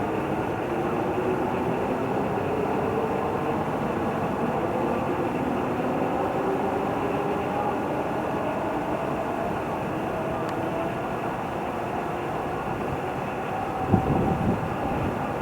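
Train running on the line with a steady rumble and faint, slowly shifting whining tones; a few low thumps near the end.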